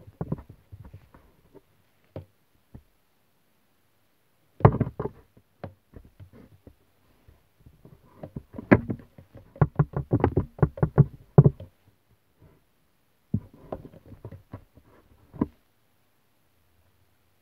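Knocking and tapping in irregular clusters, with a dense run of quick strikes in the middle and quiet gaps between the groups.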